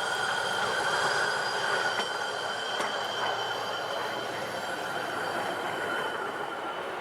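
LORAM rail grinder train running on the rails with a steady high-pitched squeal of several tones over a rumble, and a few faint clicks.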